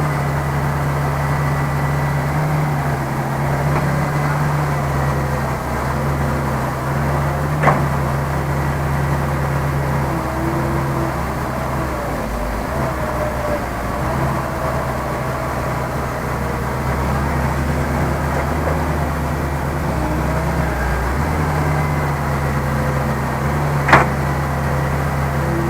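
Heavy diesel engine of earth-moving machinery running steadily, its note shifting slightly now and then. Two sharp knocks, one about 8 seconds in and a louder one near the end.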